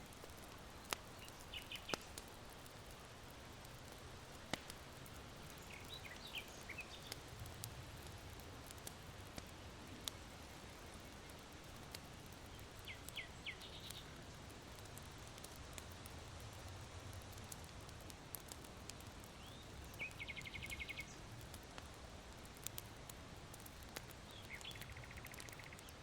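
Charcoal fire in an irori hearth crackling with scattered sharp pops, while small birds chirp in short phrases, with two rapid trills in the second half. A low, faint rush of wind runs underneath.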